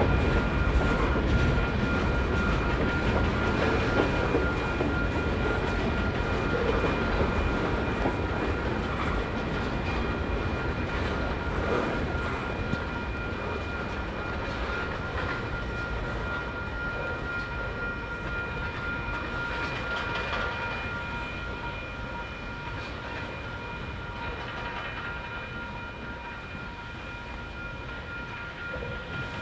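Freight cars of a manifest train rolling past, wheels clicking over the rails. The rumble fades after about halfway as the end of the train goes by. Steady high-pitched tones sound throughout.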